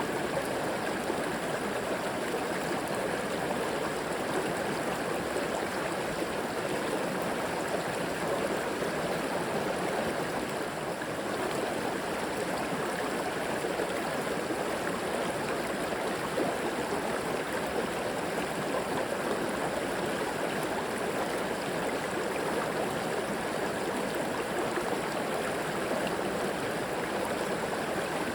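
A river flowing steadily over rocks, a constant rushing and gurgling of water.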